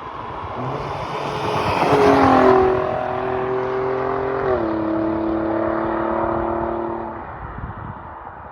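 Alfa Romeo Giulia Quadrifoglio's twin-turbo V6 and exhaust under way: the engine note climbs in pitch as the car accelerates, then holds a steady drone with a small dip in pitch about halfway through, and eases off near the end.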